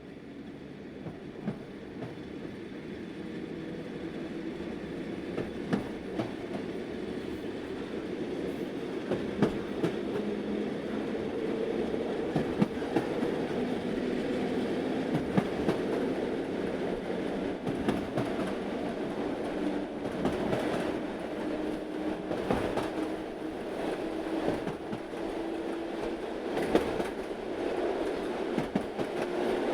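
Small 60 cm narrow-gauge tourist train running along its track, with sharp wheel clicks over the rail joints. The sound grows louder over the first ten seconds, and its engine note slowly rises in pitch.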